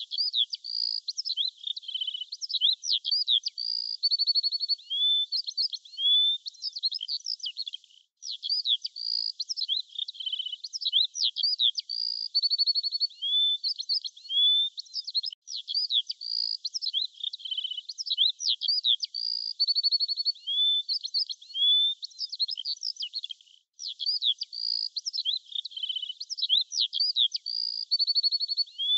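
Birdsong: a busy run of high chirps, whistles and short trills that repeats as a loop about every seven and a half seconds, with brief gaps between repeats.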